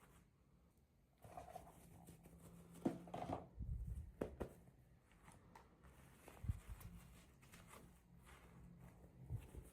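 Faint handling of toy packaging by hand: scattered crinkles, clicks and soft knocks, the loudest knocks about three and six and a half seconds in.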